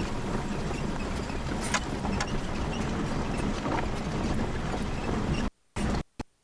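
Steady rumbling and rattling of a slow-moving ride, with scattered clicks and knocks. The sound cuts out twice, briefly, near the end.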